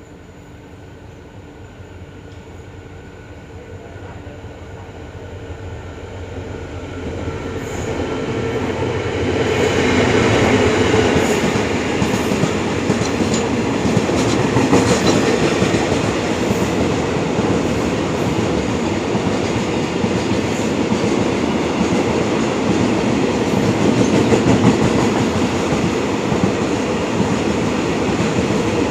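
QSY-class diesel-electric freight locomotive approaching, its engine growing steadily louder over the first ten seconds or so. A long train of container flatcars then rolls past, with loud steady wheel-on-rail noise and scattered clicks over the rail joints.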